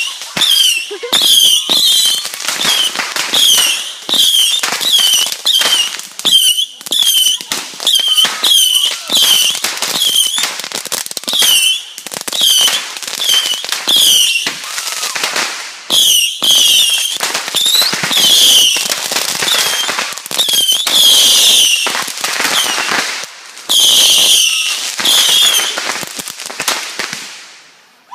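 A long, rapid string of small fireworks going off, about two a second, each a short whistle ending in a crack. The string dies away near the end.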